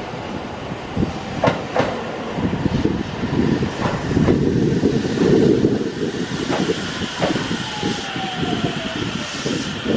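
A train running past on the rails, its wheels clacking over the rail joints in an uneven run of knocks over a rumble, loudest about halfway through, with a faint tone gliding downward near the end.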